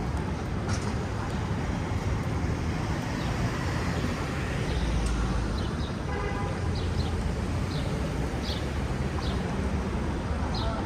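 City street traffic with a steady low rumble, and a short car horn toot about six seconds in.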